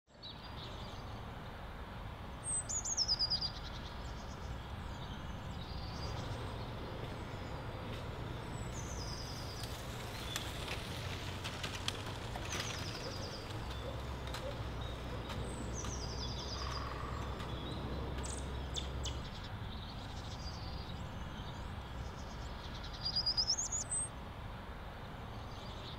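Small birds calling: short, high chirp phrases repeated at intervals, loudest twice, near the start and near the end, over a steady low rumble.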